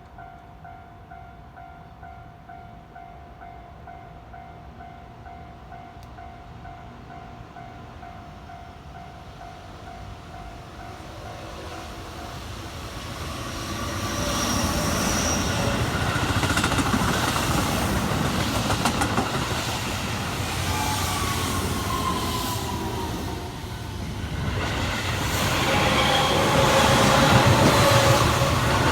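Keihan electric train approaching and passing, growing loud from about halfway through, with wheels clattering over rail joints and a motor whine that glides down in pitch. A faint steady tone is heard before the train arrives, and the train noise swells again near the end.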